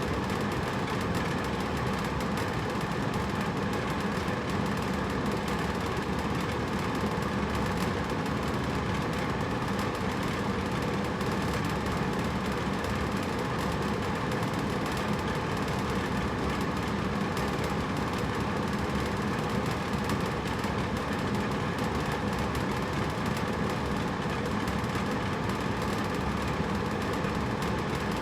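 Hotel room air conditioner running steadily: an even hum with a fan's rush over it, unchanging in level.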